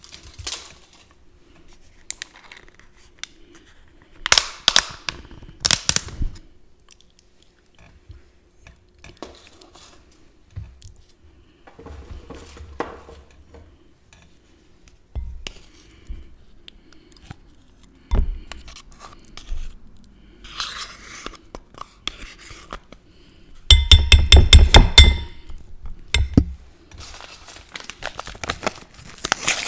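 Chips being bitten and chewed close to the microphone, with scattered crisp crunches and small clinks. The loudest is a dense, rapid run of crackling about 24 seconds in.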